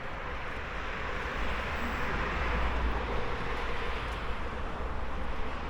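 A tram passing by: a low rumble and rolling noise that swell to a peak about two to three seconds in, then ease off.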